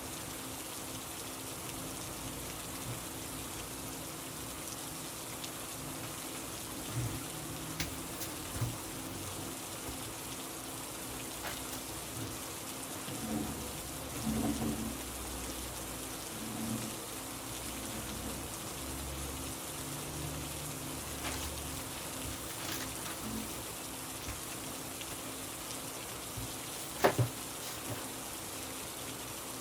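Steady rain, an even hiss with no change in strength. A few faint knocks sound here and there, and two sharper clicks come close together near the end.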